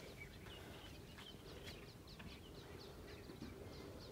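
Faint bird chirping: a run of short, high, downward-sweeping notes, about three a second.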